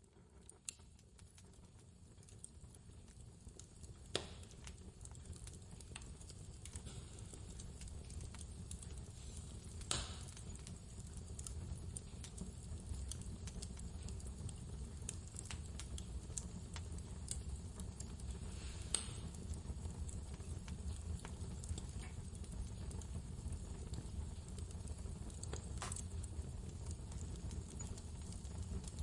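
Wood fire crackling, with scattered small snaps and a few louder pops, over a steady low rumble of blizzard wind. The sound fades in from near silence over the first several seconds.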